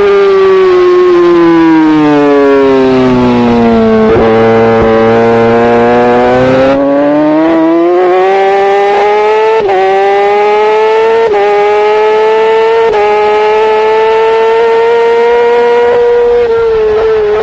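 Superbike engine at racing speed: it winds down under braking for about four seconds, runs low through a corner, then pulls hard out of it with four quick upshifts about a second and a half apart, holds high revs, and blips down through the gears near the end. Heavy wind rush over the on-bike microphone.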